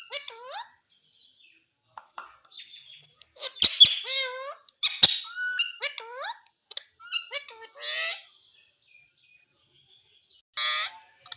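Indian ringneck parakeet calling in short bursts: whistled chirps that glide up and down, with a few loud harsh screeches among them and short pauses between the bouts.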